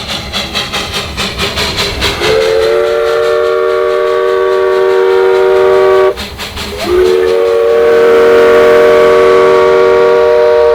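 Steam locomotive exhaust chuffing in a quick, even rhythm for about two seconds, then its chime whistle sounds two long blasts, each a chord of several notes about four seconds long, with a brief break between them.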